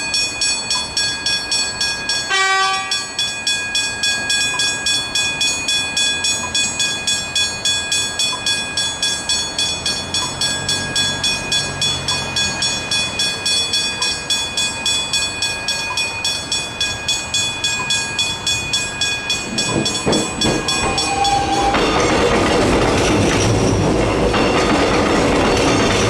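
Level crossing warning bells ringing steadily, about three strokes a second, with a short horn blast about two and a half seconds in. From about twenty seconds in a train passes over the crossing, its noise covering the bells.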